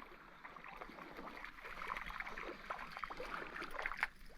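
Faint water splashing and rippling at a lake's edge, with small irregular clicks and a single knock about four seconds in.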